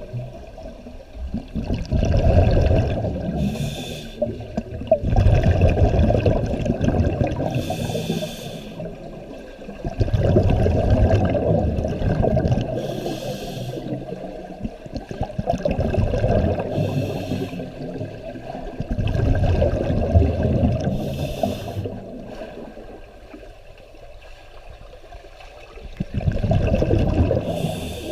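Scuba diver breathing through a regulator underwater: a short hiss on each inhalation, then a longer rush of exhaled bubbles. The cycle repeats about every four to five seconds.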